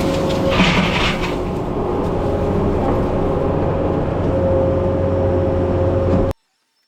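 Skid steer's diesel engine running steadily, with a brief hiss about half a second in. The sound cuts off abruptly near the end.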